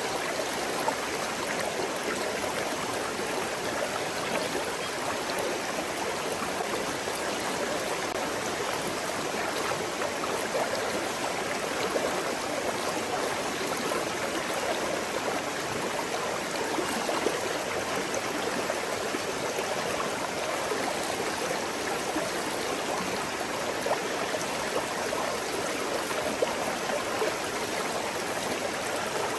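Shallow forest stream flowing over smooth stones, a steady babble of running water.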